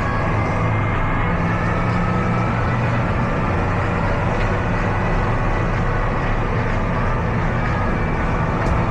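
Tractor diesel engine running steadily at a constant pace, a low, even drone.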